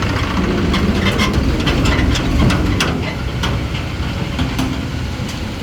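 Diesel tractor engine running steadily under load, with a scatter of sharp clicks and rattles over most of the stretch.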